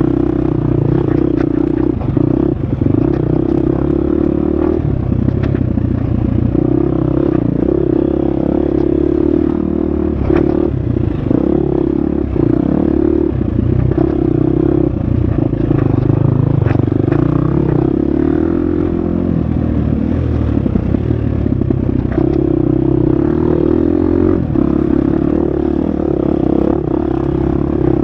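Husqvarna FX 350 four-stroke single-cylinder dirt bike engine running hard on an off-road trail, its pitch rising and falling as the throttle is worked and gears change. Frequent knocks and rattles from the bike over rough ground.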